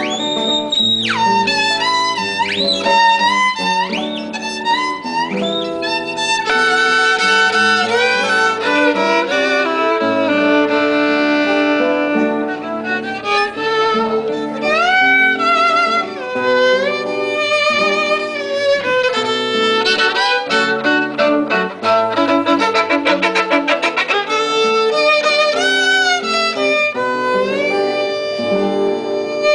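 Violin playing, with sweeping pitch slides in the first few seconds and a run of fast repeated bow strokes about 20 to 24 seconds in.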